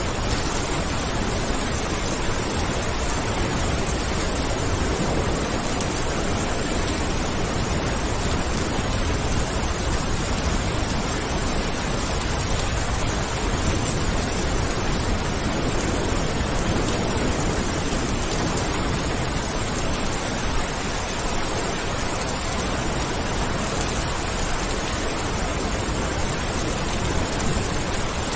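Steady rain, a dense even hiss without a break.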